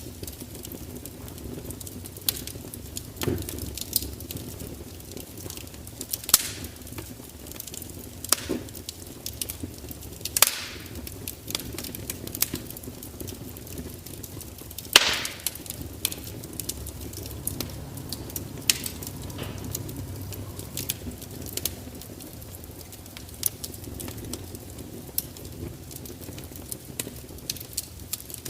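Fire crackling: irregular sharp pops and snaps over a low steady rumble, with the loudest pops about ten and fifteen seconds in.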